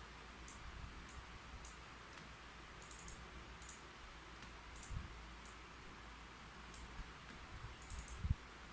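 Irregular keyboard typing: scattered single key clicks with short quick runs of keystrokes about three seconds in and near the end. A low thump just before the end is the loudest sound.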